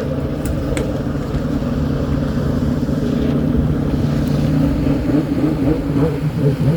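A motor vehicle engine running steadily, beginning to rev up and down near the end.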